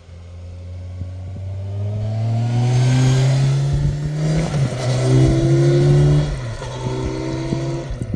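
Motorcycle engine accelerating hard, growing loud as it approaches; its pitch climbs, drops sharply at an upshift about halfway through, climbs again and drops at a second shift near the end.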